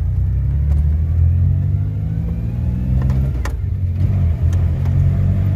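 Suzuki Jimny's engine pulling while driving: its pitch rises steadily for about three seconds, then falls back about three and a half seconds in, with a couple of light clicks, and runs on steadily.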